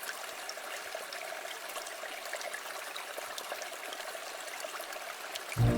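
Water trickling and flowing over rocks in a small stream: a steady rushing with many small splashing drips. Music comes in suddenly at the very end.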